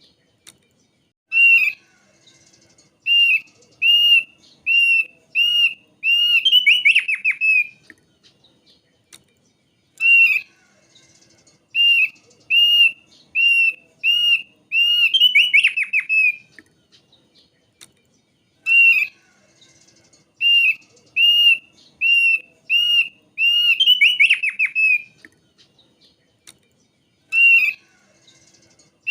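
Thick-billed heleia (opior paruh tebal) singing: phrases of clear, evenly spaced arched whistled notes, about one and a half a second, each phrase ending in a quick run of falling notes. The phrase repeats about every eight to nine seconds, three times.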